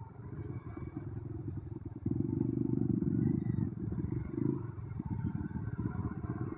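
Motorcycle engine running under way, with a rough, rapid pulsing low sound. It gets louder about two seconds in.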